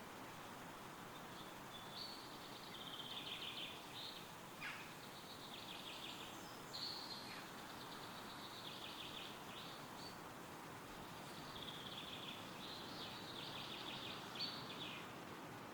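Songbirds singing in repeated short trilled phrases over a steady, faint rush of wind through trees, with a single falling call partway through.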